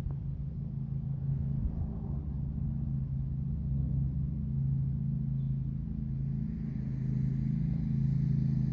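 Vehicle engine running steadily with a low drone, slowly getting louder.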